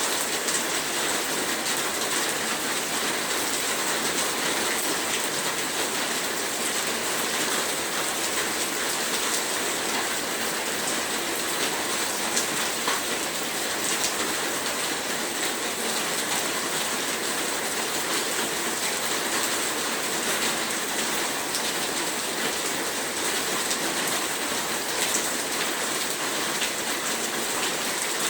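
Heavy rain falling steadily, a dense even hiss with scattered individual drop taps.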